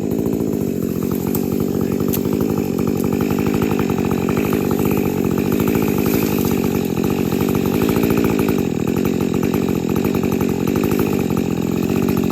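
A 50 cc two-stroke chainsaw running at high revs, cutting through a big maple tree; its pitch sags and picks up again every second or two as the chain bites into the wood.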